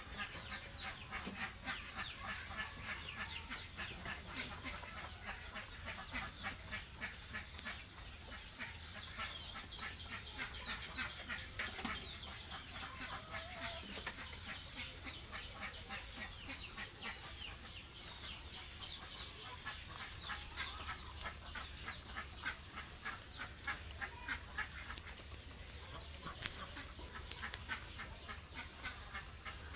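A flock of free-range chickens and ducks calling: dense, continuous overlapping chirps and clucks.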